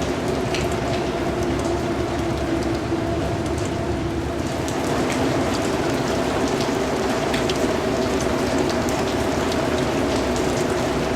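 Steady rain falling on a hard surface, with many separate drops ticking through a continuous hiss. A faint steady low hum runs underneath.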